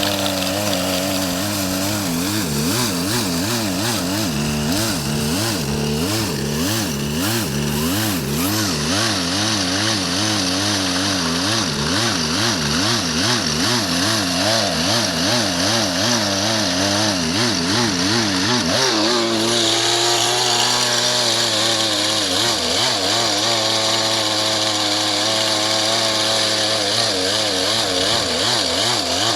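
Two-stroke chainsaw running with its engine speed hunting up and down about twice a second, and its pitch stepping up about two-thirds of the way through. The saw is barely working: it cuts poorly and is not running right even with no load.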